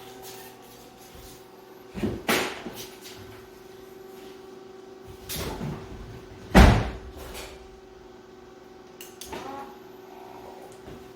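Several clunks and thumps from handling, the loudest about six and a half seconds in, over a faint steady hum.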